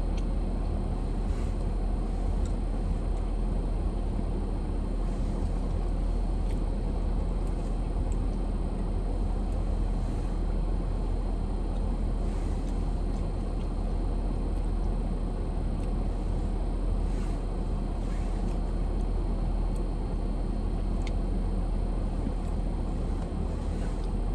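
Steady low rumble of a car's running engine, heard from inside the cabin, with a few faint clicks.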